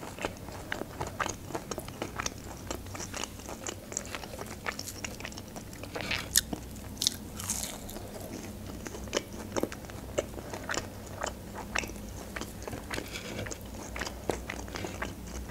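Close-miked biting and chewing of crispy fried chicken nuggets: irregular crisp crunches and clicks, with a couple of louder crunches about six and seven seconds in.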